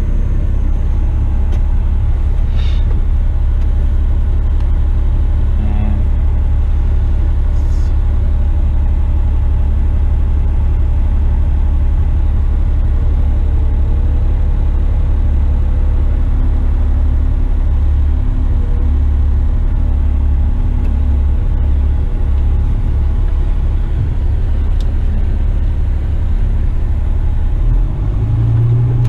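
Western Star tipper truck's diesel engine running under way, heard from inside the cab as a steady low rumble.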